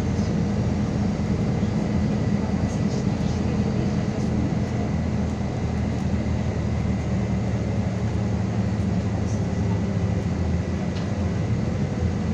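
Inside a MAZ 216 articulated city bus under way: steady engine and road noise, with a faint steady high whine and a few small rattles from the cabin.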